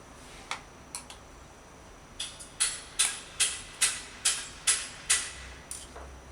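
A run of sharp, evenly spaced clicks, about two a second, seven in a row, with a couple of lone clicks before them and one after.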